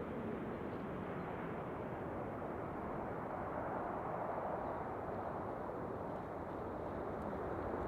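Jet airliner engine rumble on approach to land: a steady roar with no distinct tones.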